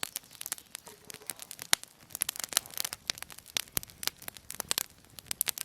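Wood campfire of sticks and tree bark crackling as it burns, with irregular sharp pops several times a second.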